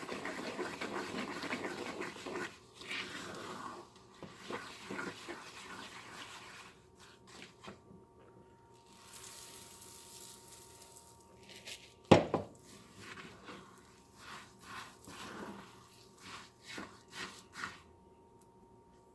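Birdseed being stirred into a thick mixture of melted Crisco and peanut butter in a pan: rustling and scraping of the spoon through the seed, louder in the first couple of seconds, with one sharp knock against the pan about twelve seconds in.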